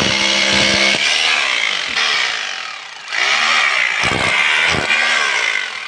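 Electric rotary hammer (about 1200 W, 26 mm class) running loudly. It eases off briefly about three seconds in, then runs again and tapers near the end.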